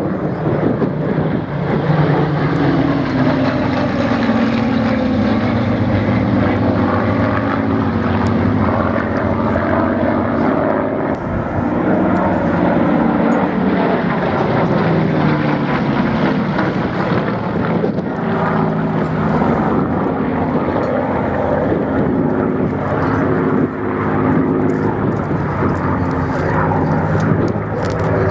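Propeller aircraft engines droning in flight; the engine note drops in pitch as the aircraft passes, at least twice, then holds steadier.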